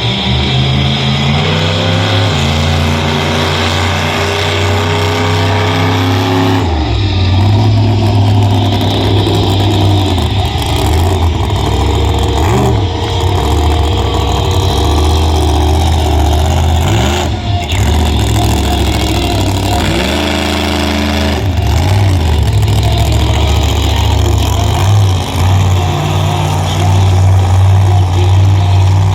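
Monster truck engine running loud and revving up and down repeatedly, its pitch climbing and dropping several times.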